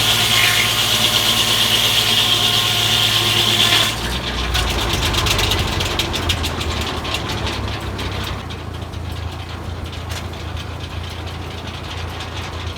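A 48-inch circle sawmill blade cutting through a log, over a tractor engine driving the mill under load. About four seconds in the cut ends and the blade spins on free, leaving the engine running with a fast ticking rattle.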